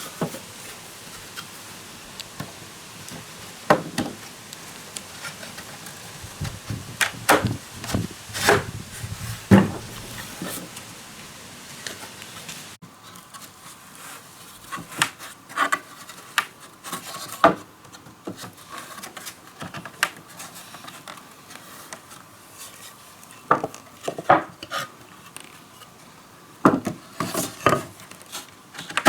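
Irregular knocks and clatter of hard objects being handled, single sharp hits a second or more apart, with a sudden change in the background about halfway through.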